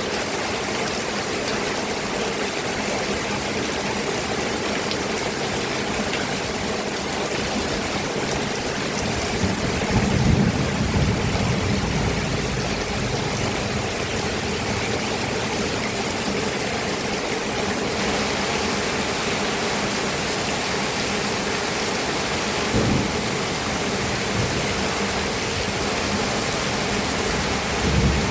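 Steady rain, with low rolls of thunder about ten seconds in, briefly again later, and near the end.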